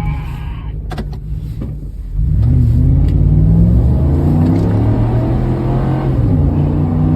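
Car engine accelerating hard from about two seconds in, its pitch climbing and then holding, with a drop and renewed climb near the end like a gear change. A few light clicks come about a second in.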